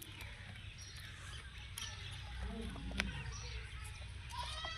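Faint outdoor birdsong over a low background rumble, with a sharp click about three seconds in. Near the end a drawn-out pitched call with many overtones begins.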